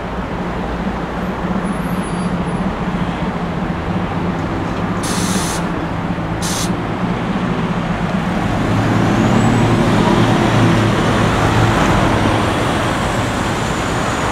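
A long freight train of car-carrier wagons rolling past with a steady rumble, with two short high hissing bursts about five and six and a half seconds in. The noise swells with a deeper hum from about eight seconds in, where road traffic is also heard.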